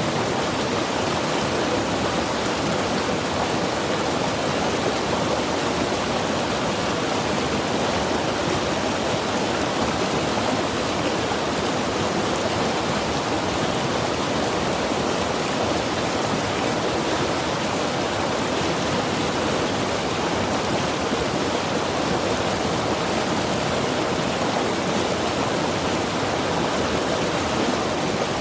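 Mountain river rushing steadily, an even, unbroken roar of flowing water.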